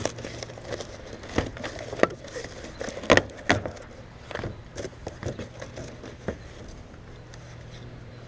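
A taped and stapled cardboard shipping box being pried and torn open by hand: irregular knocks, clicks and scrapes, the loudest about three seconds in.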